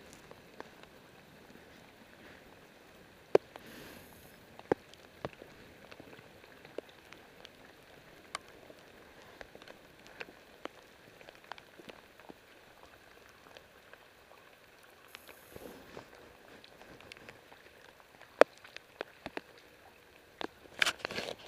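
Steady rain falling onto standing floodwater and wet paving, with scattered sharp drops and drips landing close by. A brief burst of louder crackling comes near the end.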